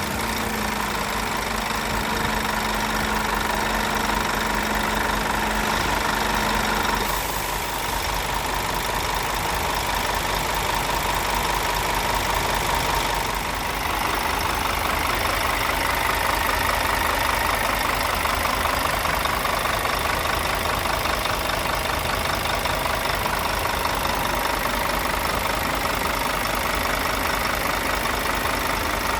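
Scania DC09 Euro 6 five-cylinder diesel engine idling steadily, with a clattery diesel knock. A steady hum underneath drops out about seven seconds in.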